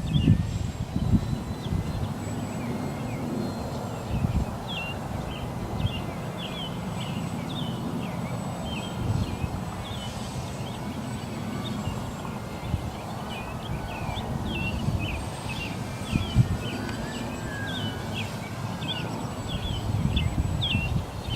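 Wind buffeting the microphone in uneven gusts, with small birds chirping over and over. About two-thirds of the way in, a faint whine rises and falls.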